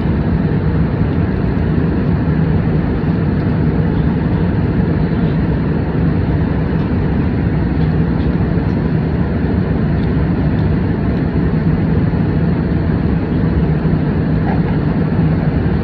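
Steady cabin noise of an airliner in flight: an unbroken drone of engines and airflow with a low hum, heard from inside the cabin.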